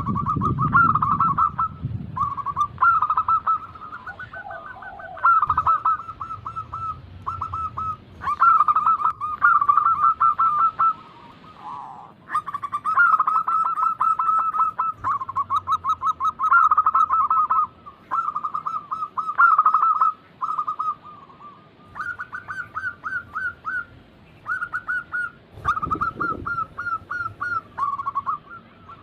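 Zebra doves (perkutut) cooing in rapid, trilling phrases, one after another with short gaps. A low thump comes near the start and again about 26 seconds in.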